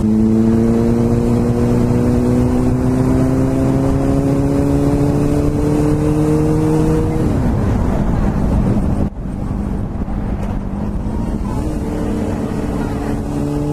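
Sport motorcycle engine pulling under steady throttle, its note rising slowly for about seven seconds, then falling away as the throttle closes; a few seconds later the engine note comes back steady and climbs again near the end. Heavy wind rush on the helmet microphone throughout.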